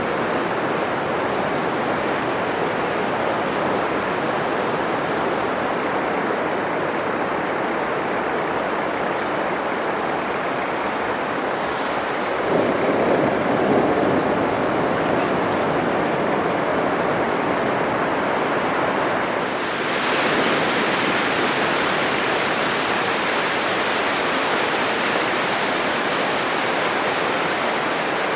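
Atlantic surf breaking on a sandy beach: a steady, loud wash of waves. About halfway through a wave breaks louder and deeper. From about two-thirds in the wash turns brighter and hissier.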